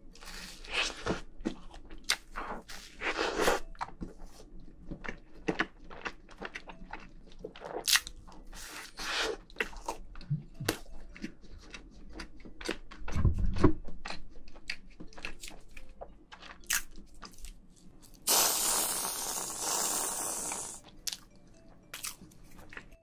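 Close-up chewing of soft cake made to look like a dish sponge, topped with whipped cream: wet mouth clicks and smacks throughout, with a low thump about 13 seconds in. About 18 seconds in, an aerosol whipped-cream can sprays with a hiss for about three seconds.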